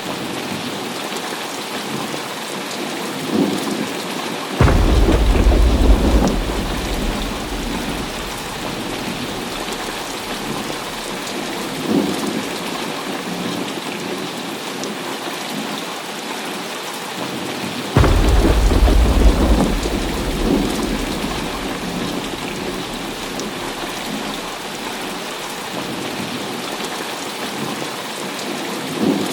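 Heavy rain falling steadily, with two sudden deep thunderclaps, about five seconds in and again about eighteen seconds in, each rumbling away over a few seconds, and a few lighter cracks of thunder between them.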